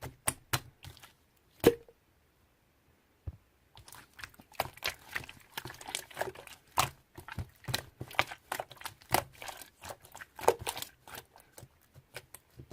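Irregular close-up crackling and clicking, as of something being crinkled or handled, with a short pause about two seconds in.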